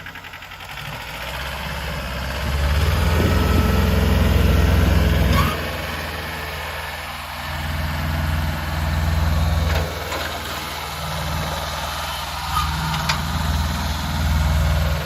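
John Deere 650 tractor's Yanmar three-cylinder diesel engine running. Its note builds for a few seconds, drops back sharply about five seconds in, then rises and falls twice more.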